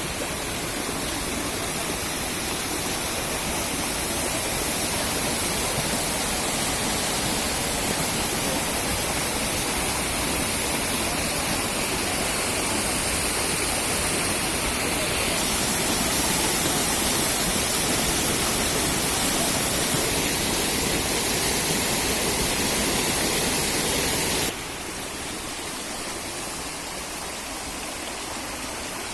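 Gandov waterfall's water falling and splashing in a steady rush. Near the end it drops abruptly to a quieter rush.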